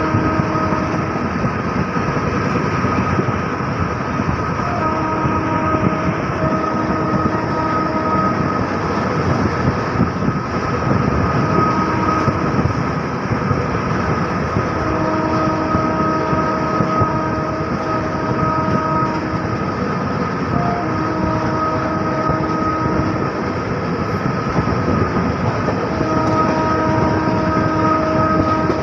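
Passenger train running at speed, a loud steady rumble of wheels on track and rushing air, while the locomotive horn sounds in several long blasts of a few seconds each with short gaps between them.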